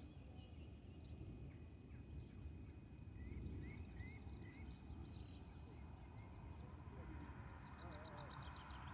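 Faint birdsong: scattered chirps and short rising-and-falling notes, with a quick trill near the end, over a low steady background rumble.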